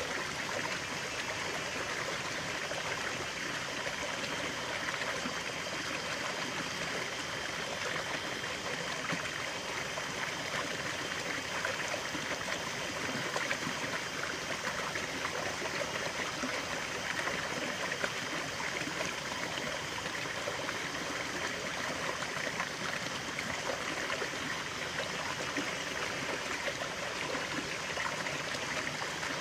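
Stream water running and trickling with a steady splashing rush, even throughout.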